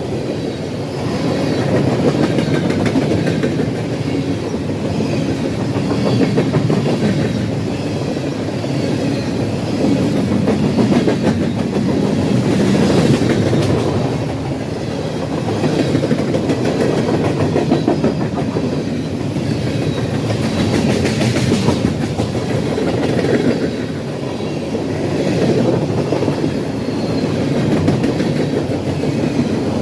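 Freight train cars rolling past at speed, a continuous loud rumble and clatter of wheels on the rails that swells and eases every few seconds as the cars go by.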